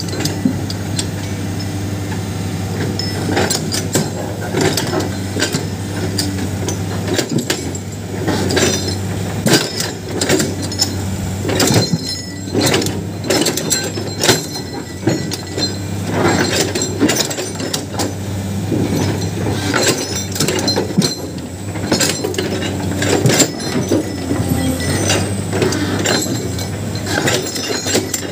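Excavator's diesel engine running steadily while it works stone and dirt, with frequent sharp clinks and knocks of rock against the metal bucket.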